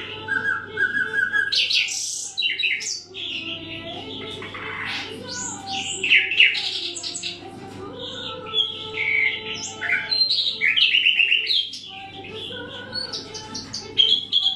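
Common nightingale singing a varied song of separate phrases: rows of repeated whistled notes, fast trills and quick rising and falling notes with brief pauses between them.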